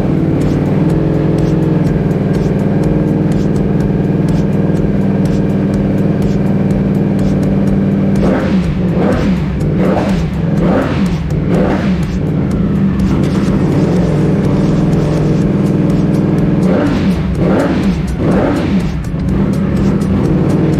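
Ducati Panigale V4 S's V4 engine running through a newly fitted aftermarket exhaust, idling steadily. About eight seconds in it takes a run of quick throttle blips, and near the end it takes another short run before settling back to idle.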